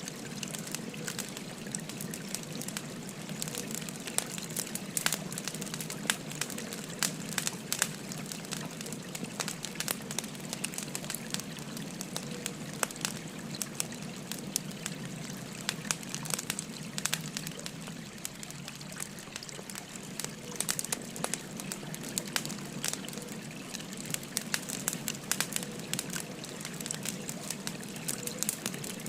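Wood fire crackling, with frequent sharp pops, over the steady rush of a babbling stream.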